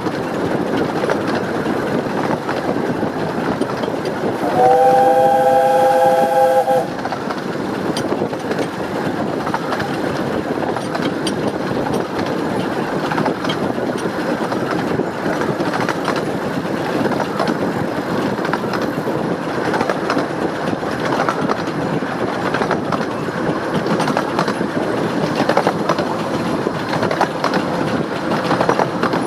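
Steam locomotive Northern Rock working hard up a steep bank, its chimney exhaust beating steadily over the rumble of the train on the rails. About five seconds in, the chime whistle sounds one chord of three notes for about two seconds.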